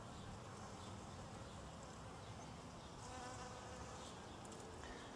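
Bees buzzing around their nest under a sprinkler valve cover: a faint, steady hum.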